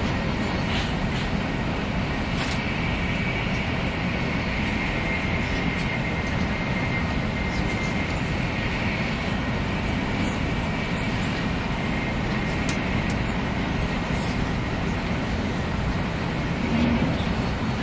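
Cabin running noise of a 300 series Shinkansen train under way: a steady rumble of wheels on rail and air, with a faint high steady whine. Near the end a lower hum grows louder.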